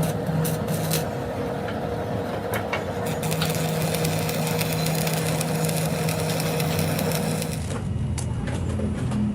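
Workshop machinery running with a steady hum and crackling clicks, changing abruptly near the end.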